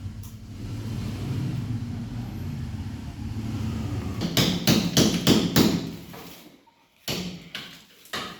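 Hammer blows, about six in quick succession starting a little over four seconds in, then two more near the end, over a low steady rumble.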